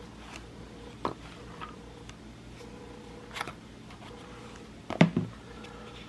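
Scattered light clicks and taps of steel broadheads and their metal tin being handled as the heads are worked out of the packing, the sharpest pair about five seconds in, over a faint steady hum.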